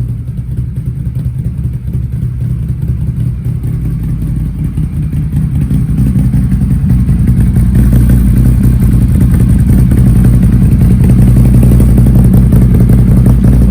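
2022 Can-Am Renegade XMR 1000's V-twin engine running through a newly fitted RJWC Dual Mud Series dual exhaust, a steady low note that grows louder over the first half and then holds.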